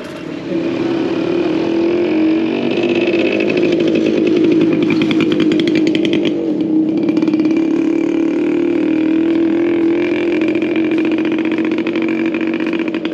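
A small combustion engine running steadily up close, coming up about half a second in and holding a fairly even pitch with a fast pulsing beat.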